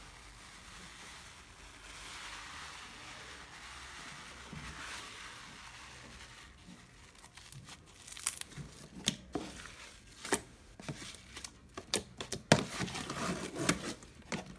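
Slime being worked by hand: a soft, even rustling for the first half, then a quickening run of sharp crackles and pops that get louder toward the end.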